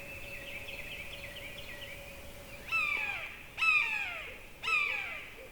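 Crow cawing three times about a second apart, starting a little over two and a half seconds in; each caw is harsh and drops in pitch. Before the caws, a faint warbling song from a small bird.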